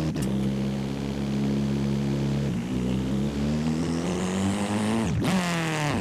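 Video-game car engine running at steady revs, shifting pitch about midway, with a high whine rising near the end and then a quick climb in revs about five seconds in.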